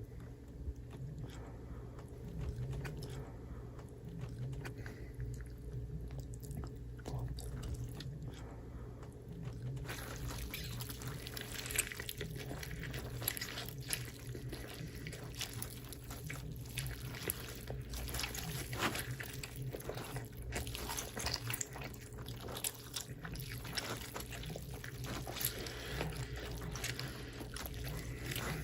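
Close-miked eating sounds: chewing, biting and crunching with wet, liquid mouth noises, as many small clicks and crackles that grow busier about a third of the way in. A steady low hum runs underneath.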